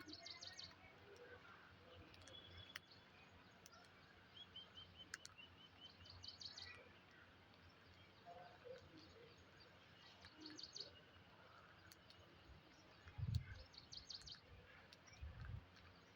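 Faint bird chirps: short high twittering clusters recurring every few seconds, with a quick run of about eight short notes about five seconds in. A few low thumps come near the end.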